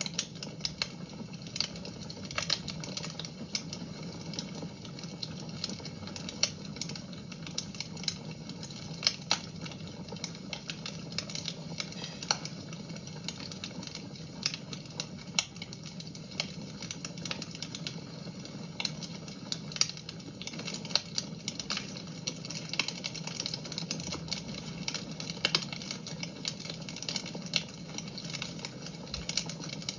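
Wood fire in a fireplace crackling: irregular sharp pops and snaps, several a second, over a steady low hum.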